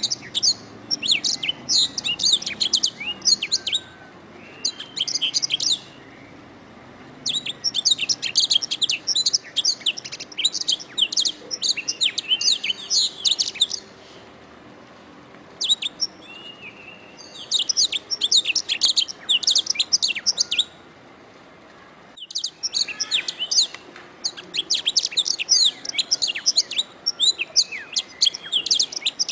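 Domestic canary singing: long, fast, rolling trills of high chirping notes in phrases of several seconds, broken by a few short pauses.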